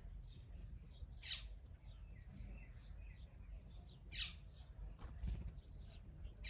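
Small birds chirping: many short high chirps, with two louder calls that sweep downward, about a second in and about four seconds in, over a steady low rumble.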